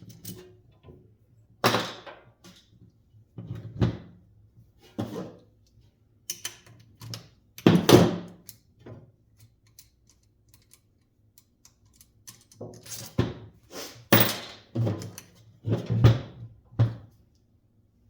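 Irregular thunks and clattering knocks of metal box fan and motor parts being handled, shifted and set down on a work surface.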